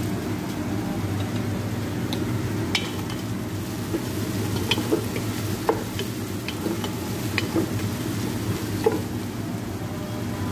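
Onions, tomato and whole spices frying in a large pot while a wooden spatula stirs and scrapes them, with scattered light clicks and knocks over a steady low hum.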